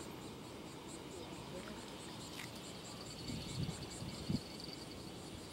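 Insects chirping in a steady high-pitched pulse, about three chirps a second, over a low steady background rumble.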